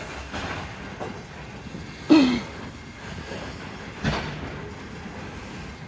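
Loaded coal train rolling past, its wheels clicking over rail joints. There is a louder knock about two seconds in and another about four seconds in.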